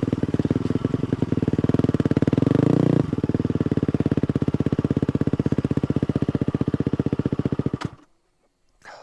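250cc four-stroke single-cylinder dirt bike engine running at low, steady revs, a little louder for the first three seconds and then easing off. It cuts off suddenly about eight seconds in.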